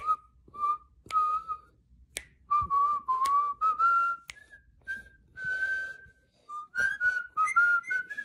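A string of short whistled notes, each a single clear tone with small rises and falls in pitch, the notes creeping slightly higher toward the end.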